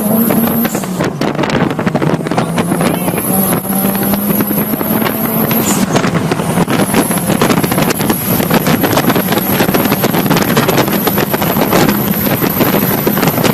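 Motorcycle engine running at speed, its pitch shifting up and down a few times, with wind rushing over the microphone.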